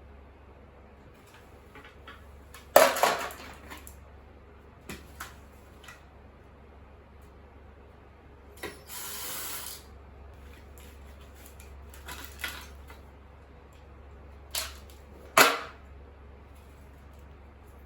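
Hammer blows on an appliance being broken apart for scrap: a few sharp, irregular metallic knocks and clatters, the loudest about three seconds in and near the end. A scraping rush lasting about a second comes midway.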